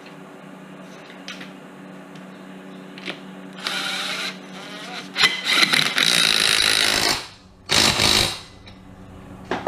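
Impact wrench running the top nut down on a coilover strut, in three bursts, the middle one about two seconds long.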